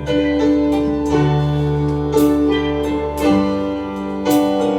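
Keyboard music: held chords sounding steadily, with a few sharp accents about two and four seconds in.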